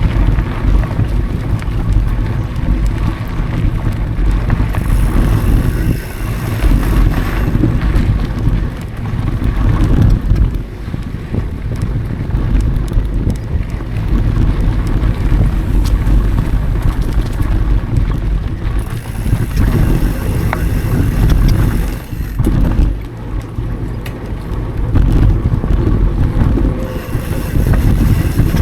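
Mountain bike ridden on dirt singletrack: wind buffeting the action camera's microphone with a heavy low rumble, over tyre noise and scattered clicks and rattles from the bike going over bumps.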